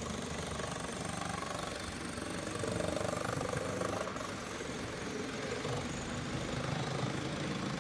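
Model train running on its layout: a steady mechanical rumble and whir.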